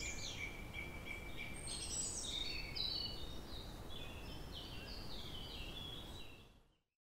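Birds chirping and calling in quick short notes over a low steady rumble, fading out to silence near the end.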